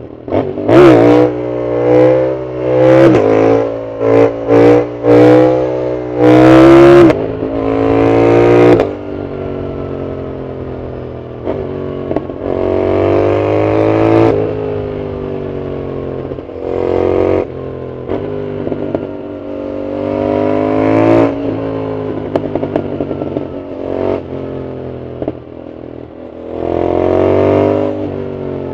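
Yamaha MT-07's parallel-twin engine through a full aftermarket exhaust under hard riding: a quick run of short, rising pulls through the gears in the first nine seconds. After that come separate throttle roll-ons, with quieter stretches between, and a last strong pull near the end.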